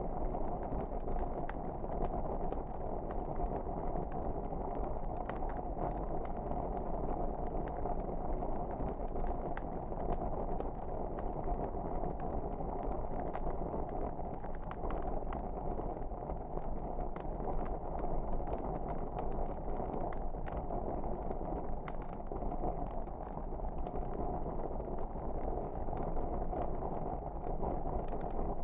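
Crackling wood fire: a steady low-pitched hiss of flames with frequent small, sharp, irregular pops and crackles.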